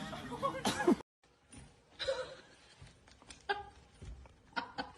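A voice with a loud burst that cuts off abruptly about a second in, then short, quiet bursts of a person laughing under their breath.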